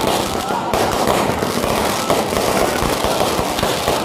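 Aerial fireworks bursting in rapid succession, a dense, unbroken crackle of bangs and pops with no pauses.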